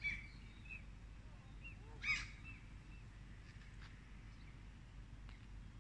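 Faint outdoor ambience: scattered bird chirps and calls over a steady low background noise, with one louder chirp about two seconds in.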